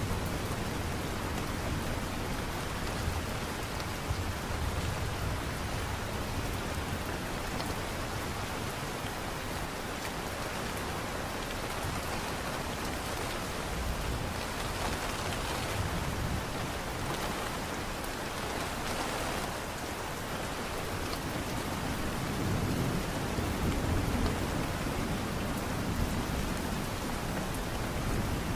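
Steady light rain, a continuous even hiss with a low rumble underneath.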